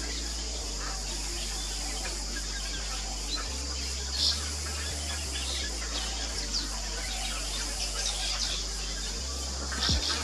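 Fairy martins giving a few short, scattered chirps over a steady high hiss.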